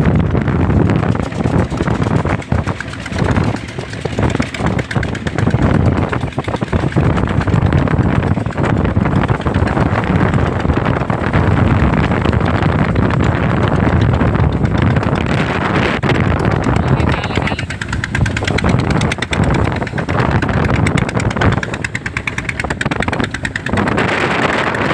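A fishing boat's engine running steadily, a dense low rumble.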